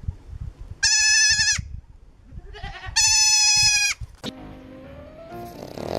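A goat bleating twice: two loud, high, steady-pitched calls, each under a second long, about two seconds apart.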